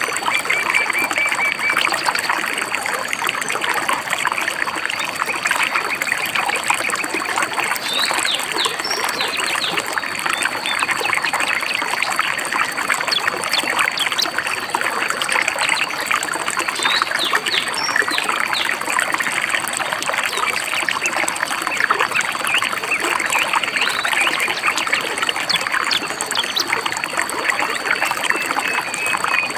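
Stream babbling steadily, with small birds chirping over it: a short high trill near the start and again at the end, and scattered quick chirps in between.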